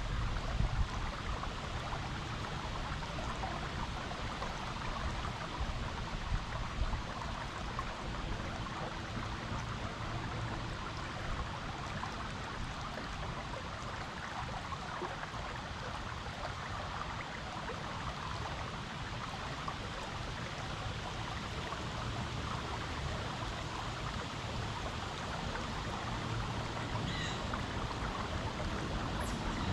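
Water of a rocky stream flowing steadily, an even continuous rushing and babbling.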